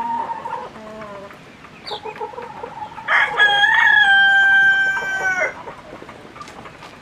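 Rooster crowing once, a loud call held for about two and a half seconds starting about three seconds in, with hens clucking before it.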